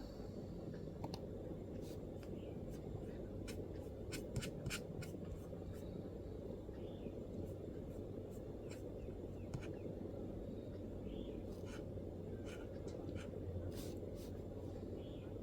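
MacBook laptop keyboard being typed on: soft keystrokes in irregular clusters, busiest in the first few seconds and sparser after, over a steady low background hum.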